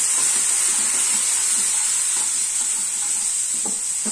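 Onion and turmeric masala sizzling in hot mustard oil in a nonstick kadhai, a steady high hiss from the teaspoon of water just added turning to steam. Soft scrapes of a wooden spatula stirring run under it, with a couple of sharper taps near the end.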